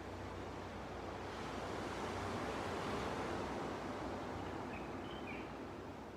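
Ocean waves washing onto a beach, one wash of surf swelling about a second in and falling away around four seconds. A few faint bird chirps near the end.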